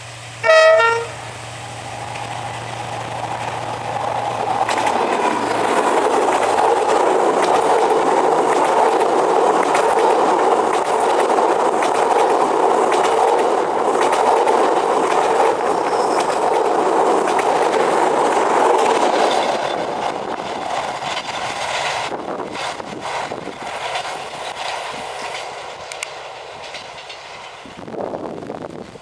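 A diesel train gives one short horn blast about half a second in, then passes with a steady rumble and rattle of rolling wagons. The rumble builds over the first few seconds and fades after about twenty seconds, leaving scattered clicks of wheels over rail joints.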